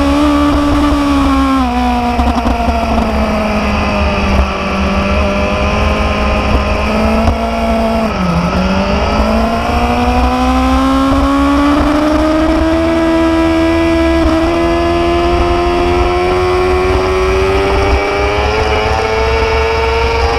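Motorcycle engine running while riding, its pitch stepping down about two seconds in and dipping briefly around eight seconds, then climbing slowly and steadily. A low wind rumble runs underneath.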